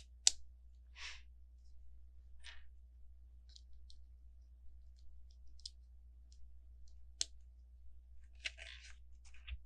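Plastic LEGO pieces clicking and rattling as they are handled and fitted together: one sharp click just after the start, the loudest, then softer short rustles and scattered small ticks.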